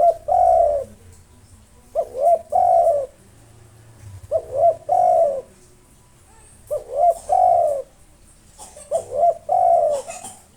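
A spotted dove (tekukur) cooing its song over and over, five times: each phrase is two quick notes followed by one longer coo, repeated every two seconds or so.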